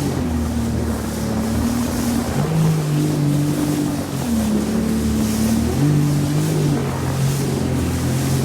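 Jet ski engine running under way, its pitch dropping and rising several times, with wind and water rushing.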